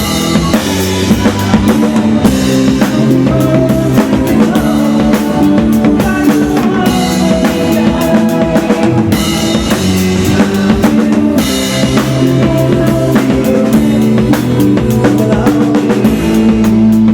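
Live band music driven by a full drum kit, with kick and snare hits under sustained pitched notes from the other instruments.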